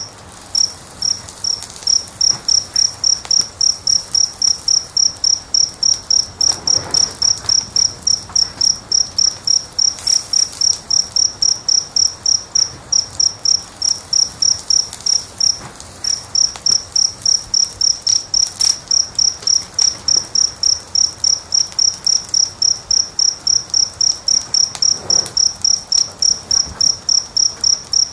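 A cricket chirping steadily, about three high chirps a second, breaking off briefly twice, with faint crackling from the wood fire underneath.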